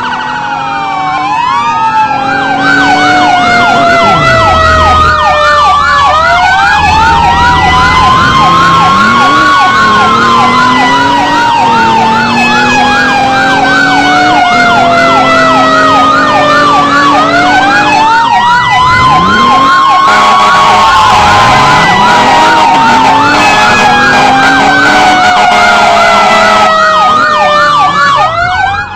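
Fire truck sirens sounding together: a slow wail that rises quickly and then falls over about ten seconds, starting again twice, overlaid with a fast yelp sweeping about four times a second.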